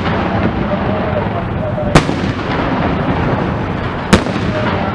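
Aerial fireworks shells bursting: two sharp booms about two seconds apart, over a steady dense din.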